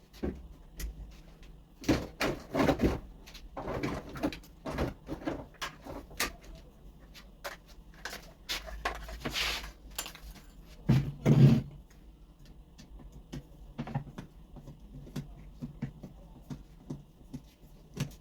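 Irregular clicks, knocks and scrapes of metal and plastic parts and tools being handled while an angle grinder is taken apart by hand, with one louder, heavier knock about eleven seconds in.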